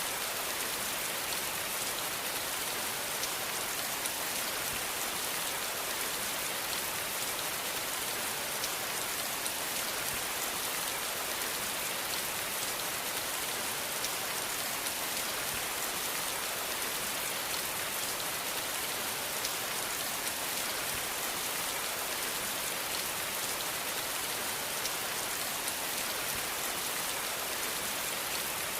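Steady rain falling on a surface, a dense even hiss with fine individual drop ticks, unchanging throughout.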